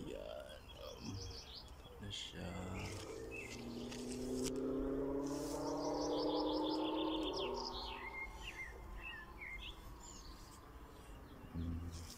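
Small birds chirping, with quick trills of repeated high notes. A low droning hum swells in the middle and fades, and a couple of brief knocks are heard.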